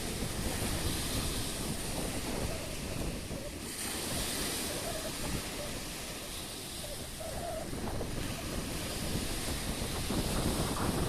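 Black Sea waves breaking and washing in, the hiss swelling and easing every few seconds, with wind rumbling on the microphone.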